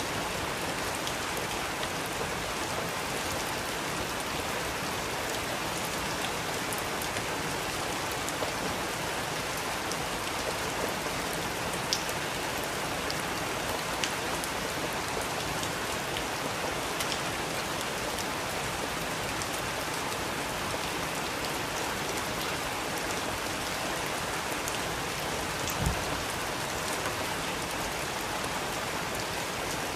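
Steady rain falling, with individual drops ticking on a surface now and then and a single low thud near the end.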